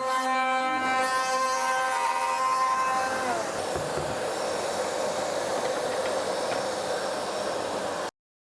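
Palm router with a 45° chamfer bit running at full speed with a steady high whine. About three seconds in, its pitch drops as the bit takes load in the wood, and it runs on with a rough cutting noise until the sound stops abruptly near the end.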